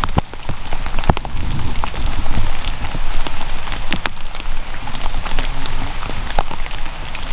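Rain falling, with individual raindrops striking close by as sharp irregular ticks over a steady patter and a low rumble.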